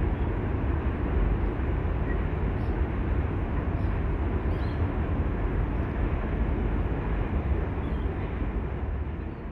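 Diesel-hauled freight train passing, a steady deep rumble that begins to fade right at the end.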